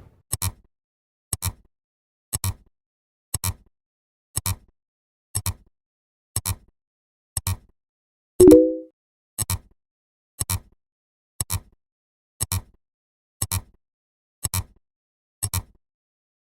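Sharp ticks at a steady pace of about one a second, each a quick double click, like a clock ticking. About eight and a half seconds in, a louder, short sound effect with a few pitches cuts across them and dies away quickly.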